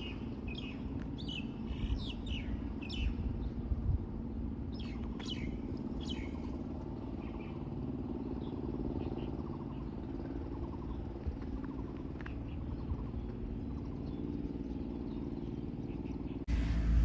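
Small birds chirping in quick, short calls, many in the first seven seconds and only a few after, over a steady low rumble. Near the end the sound cuts to louder, busier chirping.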